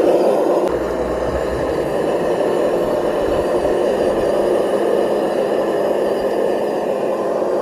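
Small electric motor and gears whirring steadily, with a low rumble added for a couple of seconds near the start.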